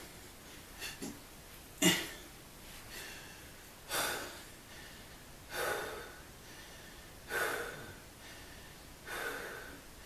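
A person breathing hard during exercise, with a forceful exhale about every two seconds, five in all.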